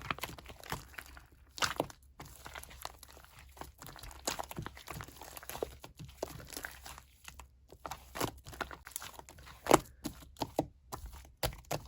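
Coloured sand being pressed and crumbled by hand, giving irregular crisp crunches and crackles, several a second, with a louder crunch about ten seconds in.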